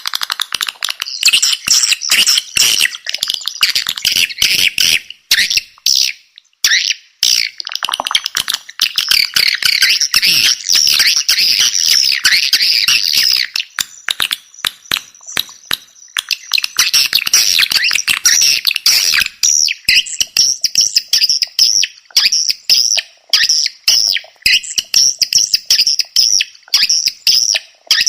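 Edible-nest swiftlet calls played as a swiftlet-house lure track: a loud, dense twittering chatter of rapid high chirps, thinning out briefly twice.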